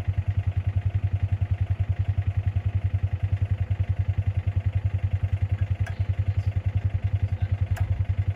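Small vehicle engine running at a steady speed, with a low, fast, even pulse and no change in pace.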